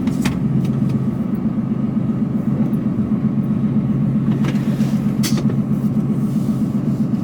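Mercedes-Benz Actros truck heard from inside the cab while driving: a steady low drone of the diesel engine and road noise, with a few short clicks.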